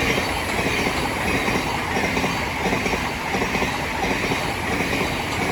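Thameslink Class 700 electric multiple unit running through the station: a steady, loud rush of wheel-and-rail noise.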